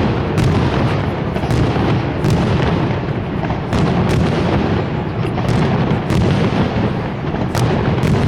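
Fireworks display going off: a continuous low rumble of booming shell bursts with sharp cracks and bangs several times a second.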